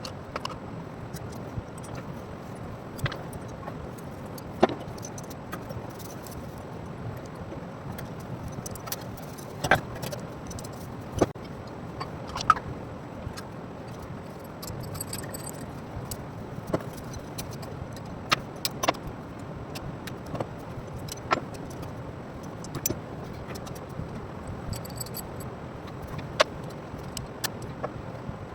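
Irregular sharp metallic clinks and knocks, one every second or two, as metal parts and hand tools are handled, over a steady low background hum.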